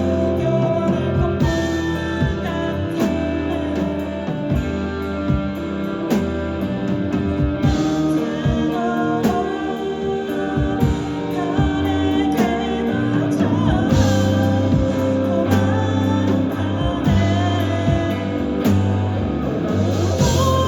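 Live band music: guitar over bass and drums, with a singing voice carrying the melody.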